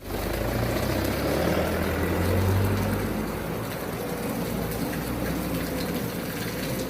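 Water spraying steadily onto a muddy toy tanker truck as it is washed, over a low pump hum.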